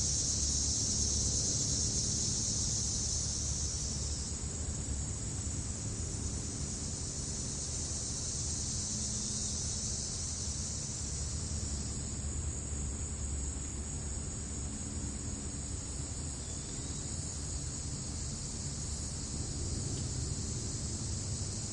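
Dense, steady chorus of crickets trilling in grass, slightly thinner and quieter from about four seconds in, over a low steady rumble.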